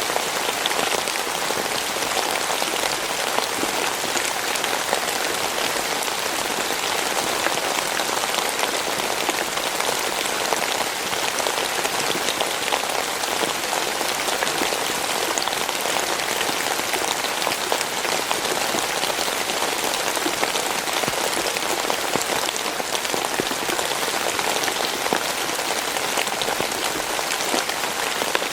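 Steady rainfall: dense, even patter of many raindrops striking a surface.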